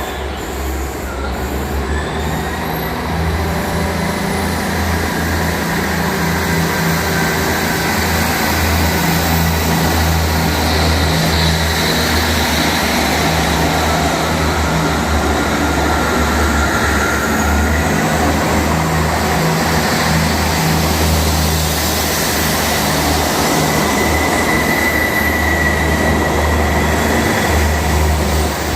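Train running through a station: a steady, loud low rumble with a faint high whine over it, slightly louder after the first few seconds.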